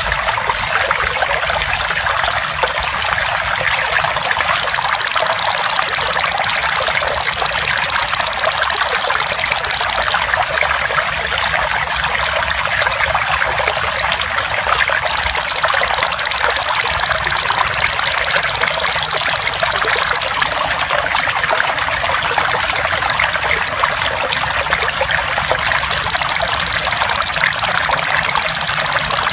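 Water trickling steadily, overlaid with a loud, high, rapidly pulsing insect trill from a belalang emas. The trill comes in bursts of about five seconds, roughly every ten seconds, three times.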